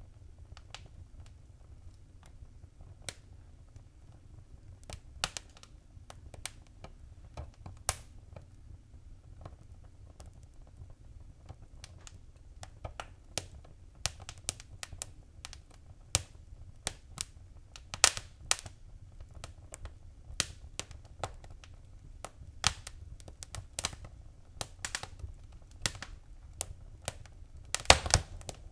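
Wood fire crackling: irregular sharp pops and snaps over a low steady rumble of the flames, the pops growing much more frequent in the second half.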